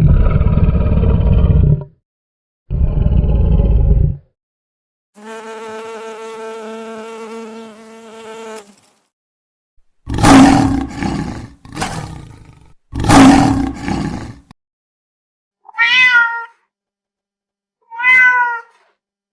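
A series of separate animal calls with short gaps between them. Two rough, growling calls come first, then one long steady call, then two loud calls, and near the end two short calls that bend in pitch.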